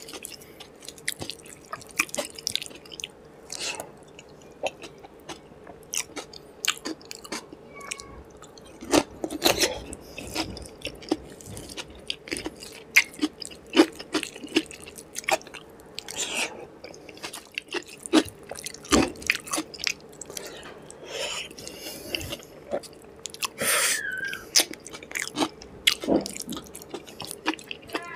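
Close-up chewing of soft rice and curry eaten by hand: wet, irregular mouth clicks and smacks, with squelches of fingers mixing khichuri on a steel plate, over a faint steady hum.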